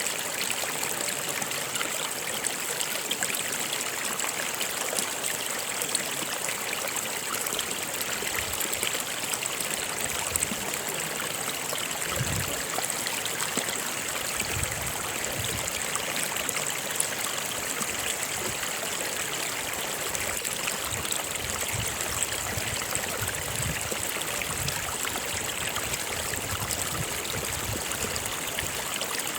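A stream flowing and splashing steadily, a continuous even rush of water.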